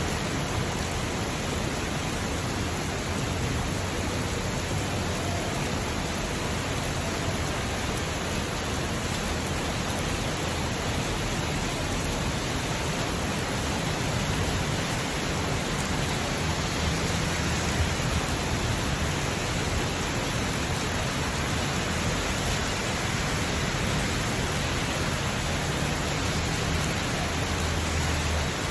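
Steady rain falling on a wet city street, a continuous even hiss, with a low rumble of traffic underneath.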